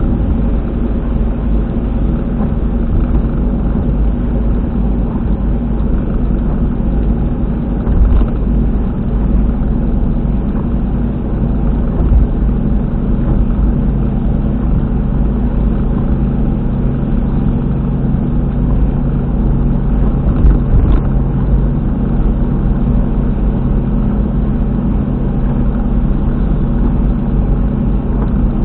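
Car at expressway speed heard from inside the cabin: a loud, steady low drone and rumble from the rear wheel, the noise of a failed rear hub bearing, with a few louder thumps along the way.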